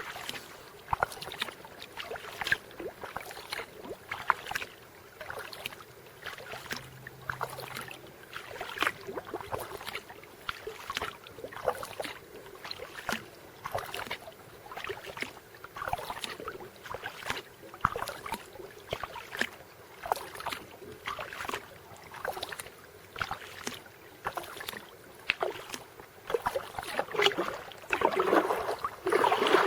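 Kayak paddle strokes: the blades dip and splash into lake water in a steady rhythm, with the water growing louder near the end.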